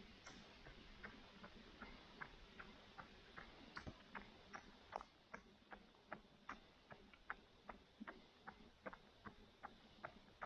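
Faint, evenly paced footsteps of a runner on a road, about three steps a second.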